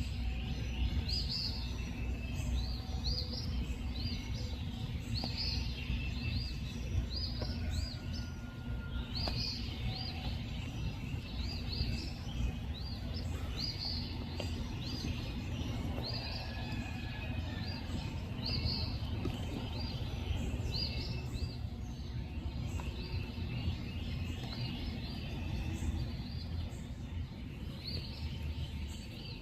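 Night-time nature ambience: a continuous series of short, high, rising chirps, one or two a second, over a steady low rumble.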